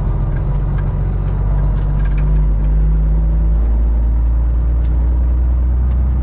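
Semi truck's diesel engine running steadily, heard from inside the cab while driving, a loud low drone whose note steps down slightly about halfway through.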